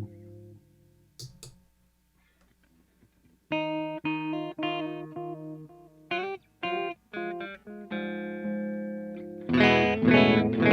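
Electric guitar played through an Old Blood Noise Endeavors Black Fountain V3 oil-can delay pedal. A chord dies away, then after a short pause come a run of picked notes and a few short clipped ones, and near the end louder strummed chords.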